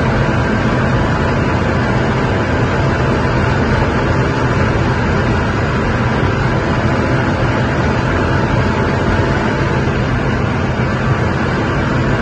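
LaFerrari's V12 hybrid drivetrain running at a steady high speed, its engine drone held level under a dense rush of wind and tyre noise with no revving or gear changes.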